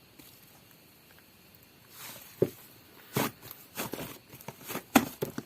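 Hands squishing and poking a large black butter slime: soft sticky clicks and pops, several a second, starting about two seconds in.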